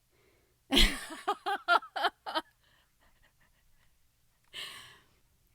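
A woman laughing: a sudden loud burst, then a quick run of about five short "ha" pulses, followed by a breathy in-breath a couple of seconds later.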